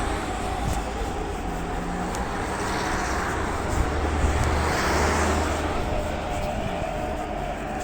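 Road traffic noise: a steady rumble with a vehicle passing by, swelling about midway.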